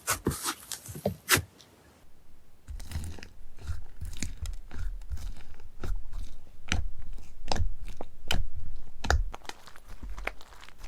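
Crunchy slime being squeezed and pressed by hand, giving a dense run of crackling pops. Partway in the pops turn softer and sit over low, dull squishing thuds.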